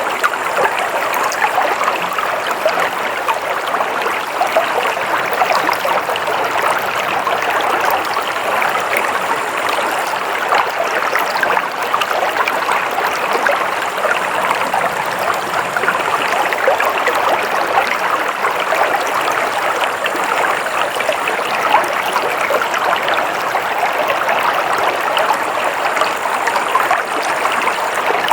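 Stream water flowing steadily over rocks, a continuous babbling rush with fine splashing and trickling.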